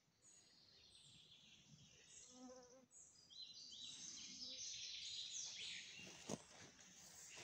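Faint birdsong: a songbird's quick, high phrases, busiest from about three to six seconds in, with a sharp click or two near the end.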